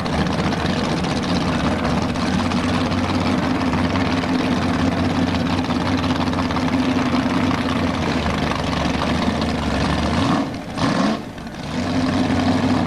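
Drag-racing car's engine idling steadily. About ten seconds in, the note briefly drops away and bends, then settles back to the same idle.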